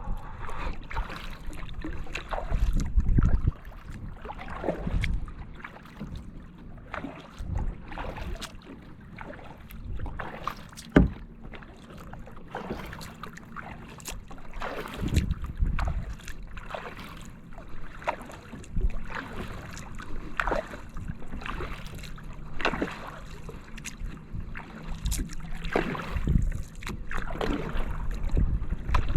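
Kayak paddling: the paddle blades dip and pull through the water in irregular splashes, with water dripping and trickling off the blades between strokes.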